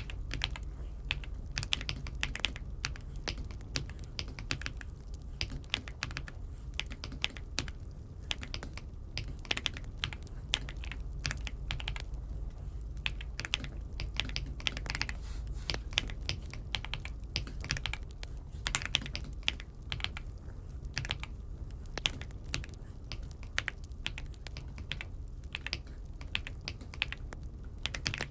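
Typing on an Aula F75 mechanical keyboard: a steady, irregular stream of key clicks over a low steady hum.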